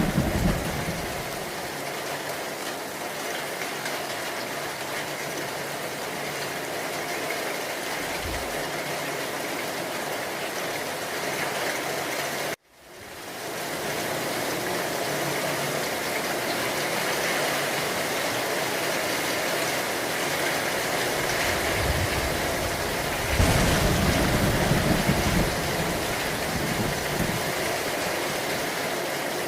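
Steady rain with low rumbles of thunder, the loudest and longest about 22 to 26 seconds in. About midway the sound cuts out abruptly for an instant and fades back in.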